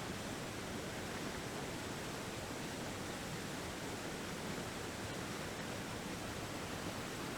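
Steady, even rushing hiss that spreads evenly from low to high pitches and does not change.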